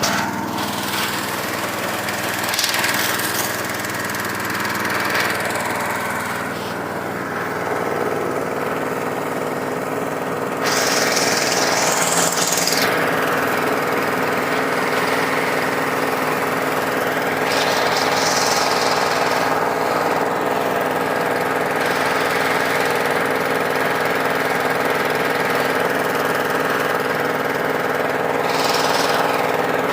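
A small engine running steadily, with bursts of hissing spray every few seconds, as a motorbike is washed with a powered water jet.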